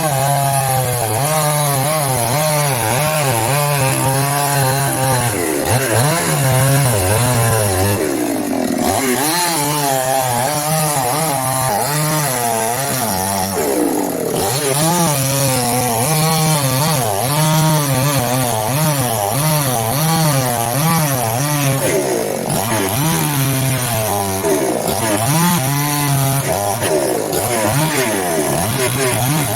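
Chainsaw running and cutting wood, its engine pitch rising and falling continuously as the chain loads and frees in the cut.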